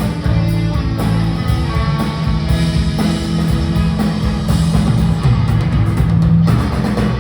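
Live rock band playing with electric guitar, bass and drums, loud and full; the band drops out abruptly near the end.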